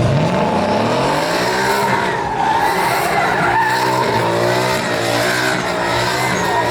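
Truck doing a burnout: the engine revs hard, its pitch rising and falling repeatedly, while the spinning rear tyres squeal steadily against the pavement.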